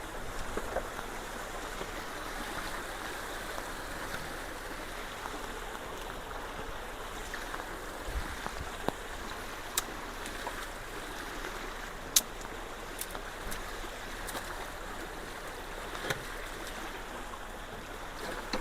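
Steady rush of water pouring through a road culvert that has just been cleared of debris and is flowing faster, with a few scattered sharp ticks.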